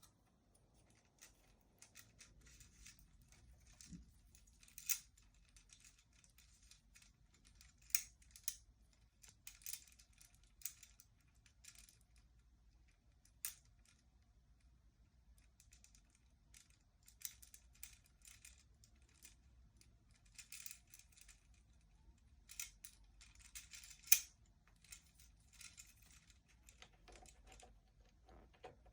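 Quaker parrot playing on a bead swing: the beads click and rattle in faint, irregular bursts, with a few sharper clacks.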